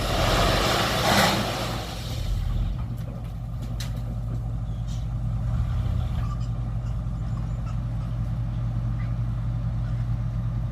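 An excavator's diesel engine running steadily, with a loud rushing noise for the first two seconds or so and a few light knocks after it.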